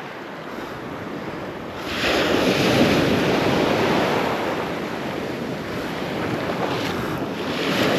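Surf breaking and washing in, with wind buffeting the microphone; a wave surges up about two seconds in and another swells near the end.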